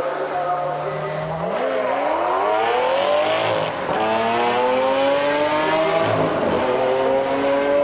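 Lamborghini Aventador's V12 held at steady revs, then launching about a second and a half in and accelerating away, the engine pitch rising and dropping at two upshifts.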